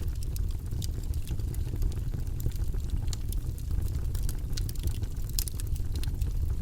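Campfire crackling, with frequent small sharp pops scattered irregularly over a steady low rumble.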